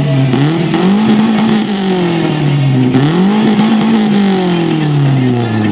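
Mazda 323F BA's Z5 1.5-litre four-cylinder engine, through an aftermarket Mugen exhaust, revving twice. Each time the revs climb quickly, then fall slowly, the second fall running on toward the end.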